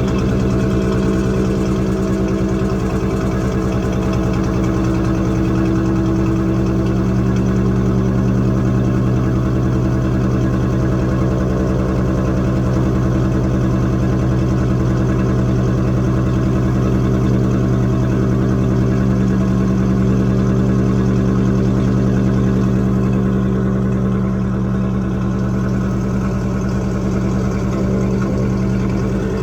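GMC truck engine idling steadily through its exhaust, a deep, even note.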